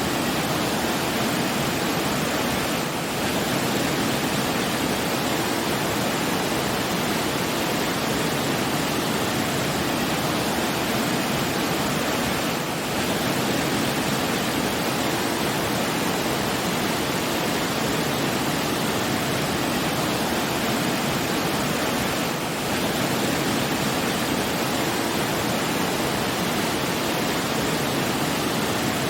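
Steady, even rushing of flowing water, like a waterfall, with no music; the level dips briefly about every ten seconds.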